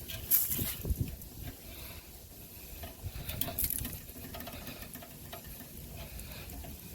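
Handling noise: scattered light clicks, scrapes and rustles, with a few low bumps in the first second.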